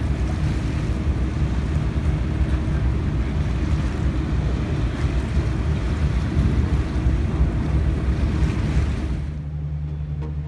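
Motorcycle engine running while riding, with heavy wind rushing over the microphone. Near the end the ride sound cuts off and music with a steady beat begins.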